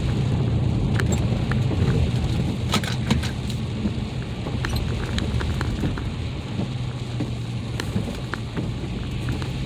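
Mercedes ML SUV being driven on an icy road: a steady low engine and tyre hum, with scattered sharp ticks and crackles.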